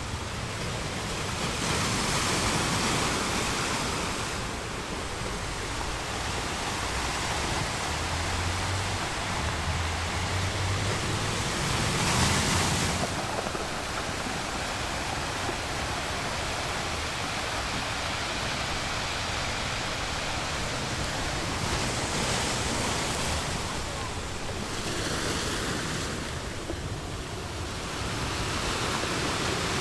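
Small waves breaking and washing up a beach: a continuous surf hiss that swells every few seconds as each wave spills in, loudest about twelve seconds in.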